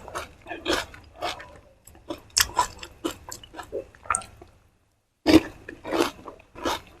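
Close-miked eating: crisp fuchka shells crunching and wet chewing in quick, irregular bites. The sound cuts out briefly about two-thirds of the way through.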